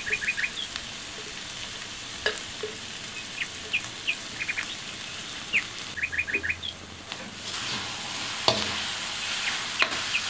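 Minced meat sizzling in ghee in a steel karahi, with chopped fresh coriander and mint just added. A few sharp knocks of a spoon against the pan, and the sizzling grows louder about seven seconds in as stirring starts. Small birds chirp in quick runs of three or four in the background.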